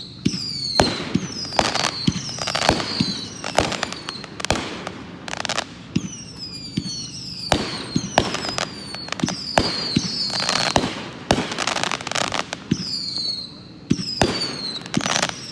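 A 25-shot consumer firework cake firing shot after shot. Sharp reports come every half second or so, mixed with short whistles that fall in pitch about once a second.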